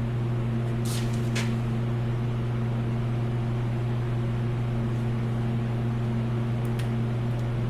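Steady low machine hum from the workshop, with a few faint metallic clicks and taps of parts being handled, once or twice about a second in and again near the end.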